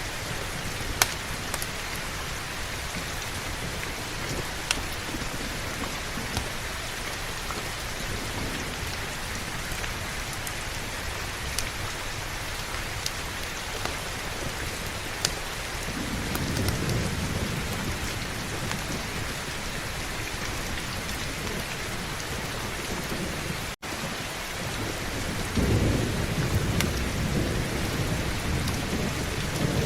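Heavy rain pouring steadily, with scattered sharp ticks. Thunder rumbles low about 16 seconds in and again, louder, about 26 seconds in.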